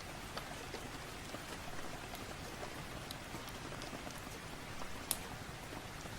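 Steady rain falling, an even hiss with scattered sharp crackles, one louder crackle about five seconds in.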